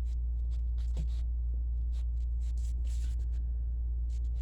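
A steady low hum under scattered light clicks and scratches from a puppy moving around and playing with its ball.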